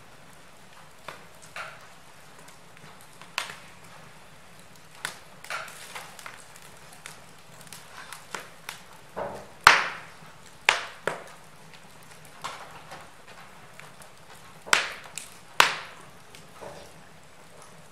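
Wood fire crackling in a fireplace: irregular sharp pops and snaps from burning logs over a faint hiss, with a few louder pops about ten seconds in and again near the end.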